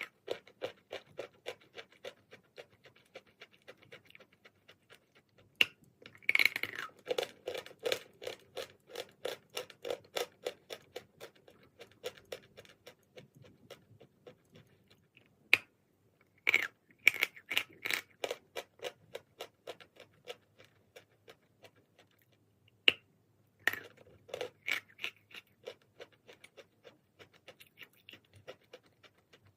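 Close-up chewing and crunching of a piece of chalk. Three sharp bites, each followed by a run of quick chews at about three or four a second.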